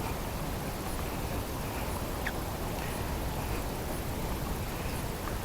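Outdoor ambience: a steady rumble of wind on the microphone, with a few faint short calls scattered through it.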